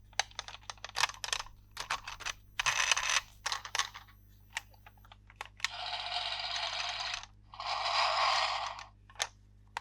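Plastic toys and packaging being handled: a quick run of light clicks and taps, then two longer rustling scrapes, each about a second long.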